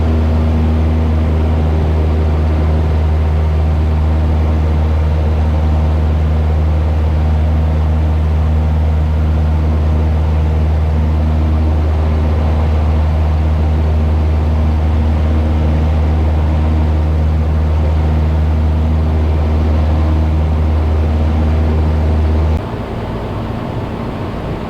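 Cessna 172's engine and propeller at climb power, a loud steady low drone heard inside the cabin. Near the end the deepest part of the drone drops off abruptly and the sound gets quieter.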